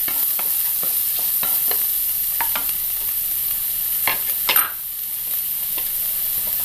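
Sliced shallots frying in hot coconut oil in a nonstick kadai, sizzling steadily as they wilt, while a wooden spatula stirs them with short scraping and tapping strokes. The stirring ends with a louder knock about four and a half seconds in, and the sizzle carries on alone.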